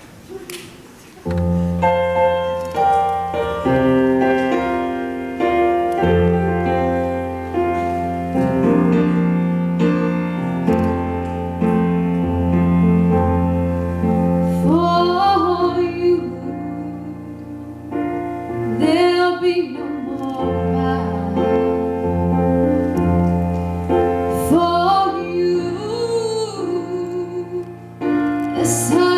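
Solo piano starts about a second in, playing slow sustained chords. About halfway through, a woman's voice comes in singing over the piano.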